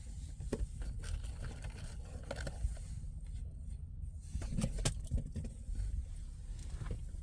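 Faint scattered clicks and scraping rustles over a low steady rumble, with a couple of slightly sharper knocks past the middle.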